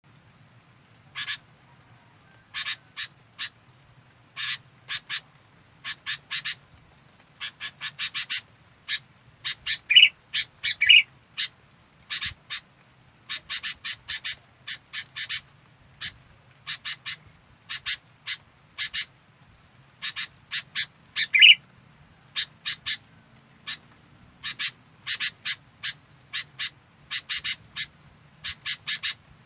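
Sooty-headed bulbul (kutilang) calling: sharp, short chirps repeated in quick runs of two to six, with brief pauses between the runs.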